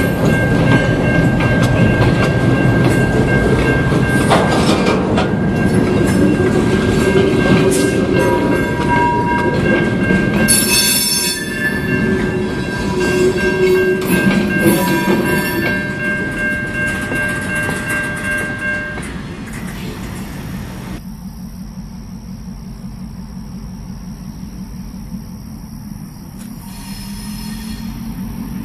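Freight cars behind a CN GMD1 diesel locomotive rolling slowly over a road crossing, wheels clacking on the rails, while the crossing's warning bell rings steadily. The bell stops about 19 seconds in, and after a cut the train is heard only faintly from farther off.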